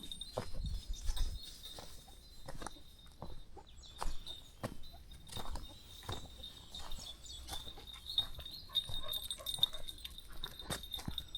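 Footsteps along a countryside path at an easy walking pace, with a steady high-pitched chirring in the background and a brief gust of wind on the microphone about a second in.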